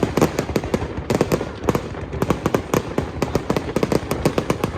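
Fireworks display going off in a rapid, continuous barrage of sharp bangs and crackles, several each second with no pause.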